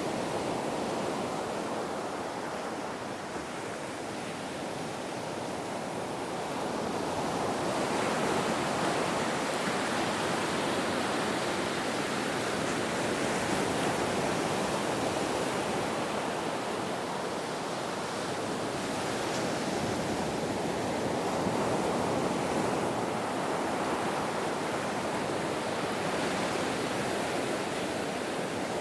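Ocean surf: a continuous wash of breaking waves that swells about a third of the way in, eases off, then swells again.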